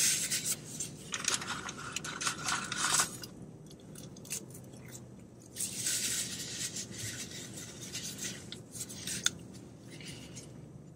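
A person chewing fast food close to the microphone: two spells of crunchy, crackly chewing with scattered small clicks between.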